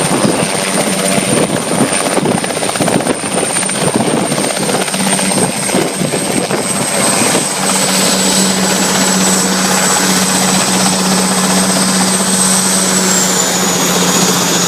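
Helicopter running steadily, a loud continuous rush with a low hum and a high thin whine that falls slightly in pitch near the end.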